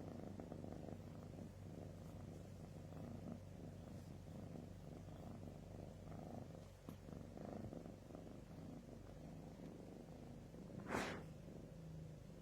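Domestic cat purring steadily, with a brief soft rush of noise a little before the end.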